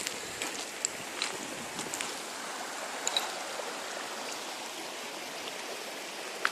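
Steady rush of a mountain river flowing over rocks, with a few faint clicks in the first few seconds.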